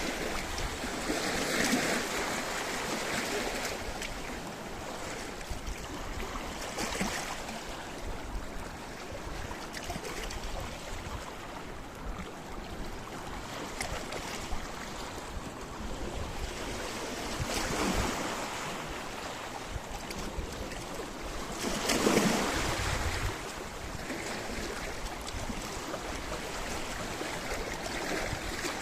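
Sea waves breaking and washing over a rocky shore, in repeated surges, the loudest about twenty-two seconds in, over a steady hiss of surf.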